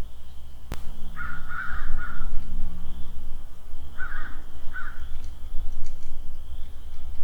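Crow cawing: one longer call about a second in, then two short caws around four and five seconds in. Under it is a steady high hum and a low rumble.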